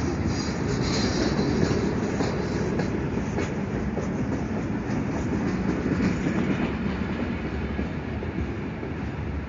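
Freight train of boxcars rolling past close by: a steady, loud rumble of steel wheels on rail, with scattered sharp clicks in the first few seconds.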